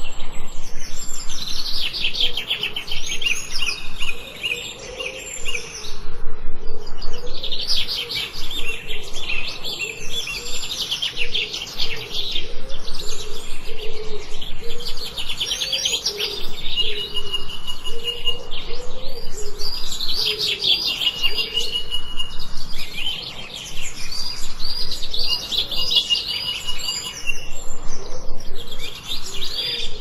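A chorus of songbirds chirping and trilling in quick, dense runs, with a short held whistle coming in a few times from about halfway through.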